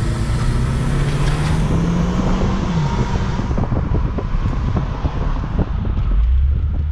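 Turbocharged four-cylinder engine of a Saab 9-3 convertible accelerating hard from a standing start, heard from inside the open-top car. Its pitch rises for nearly three seconds, then drops away as the car runs on at lighter load, with road and wind rumble.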